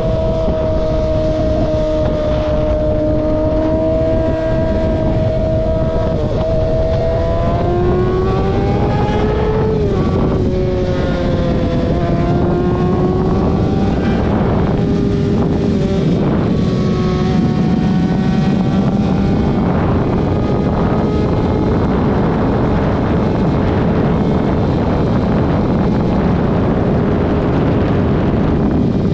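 Vehicle engine running steadily over road and wind rumble; its pitch climbs about six to ten seconds in, then drops back and holds steady.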